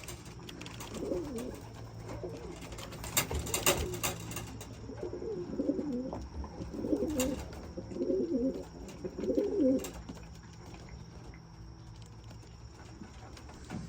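Racing pigeons cooing in their loft, a run of low, wavering coos that are strongest in the middle and fade out after about ten seconds. A few sharp clicks come in the first few seconds.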